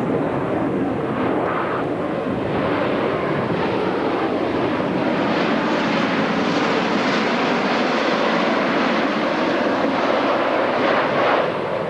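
Jet noise from Blue Angels F/A-18 Hornets' General Electric F404 turbofan engines as they fly past. It is a loud, steady noise that grows brighter around the middle and drops off shortly before the end.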